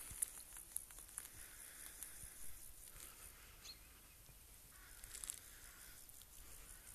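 Faint outdoor ambience with a steady high hiss and a few light rustling clicks, strongest in the first second or so.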